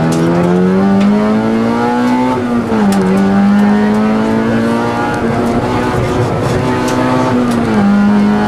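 Rally car engine heard from inside the cabin under hard acceleration. Its pitch climbs steadily, then drops sharply at a gear change about two and a half seconds in. After that it holds fairly steady, with another short dip near the end.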